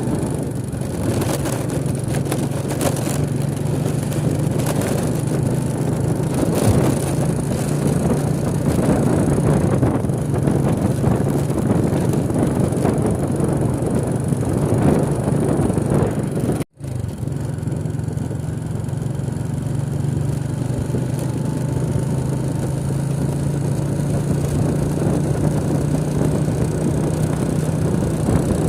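A motor vehicle's engine running steadily on the move, with road and wind noise. The sound cuts out completely for an instant a little past halfway, then carries on as before.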